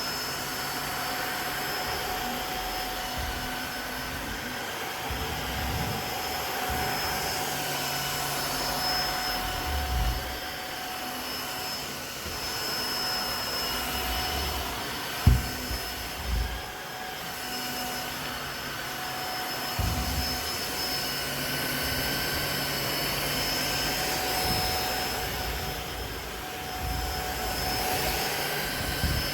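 Tineco Floor ONE S5 cordless wet-dry vacuum running steadily with a high motor whine. A few short thumps come through, the sharpest about halfway through.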